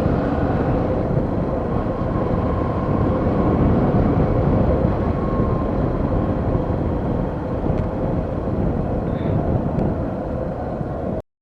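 Steady running noise of a moving vehicle, engine and road noise together, which cuts off suddenly near the end.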